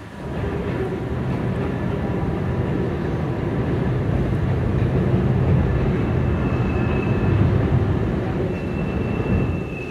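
CSX freight train's cars rolling across a steel girder bridge: a steady heavy rumble and clatter. A faint, thin, high-pitched squeal joins in the second half, plainer near the end.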